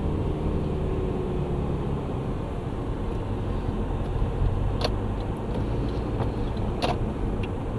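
Steady low rumble of road and engine noise inside a moving car's cabin, with two short clicks about five and seven seconds in.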